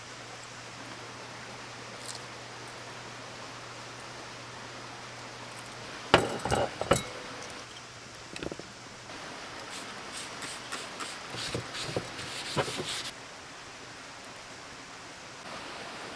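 A few sharp knocks and clinks, loudest about six to seven seconds in, then a run of lighter clicks for several seconds, over a steady hiss.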